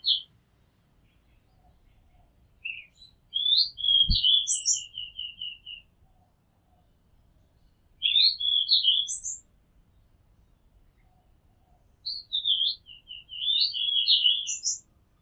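Oriental magpie robin singing: three varied phrases of clear whistled notes, one ending in a quick run of about seven repeated notes, with pauses between phrases. A brief low thump comes about four seconds in.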